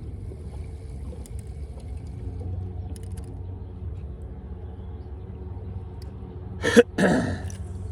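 Steady low motor rumble, with a brief loud clatter about seven seconds in whose pitch drops.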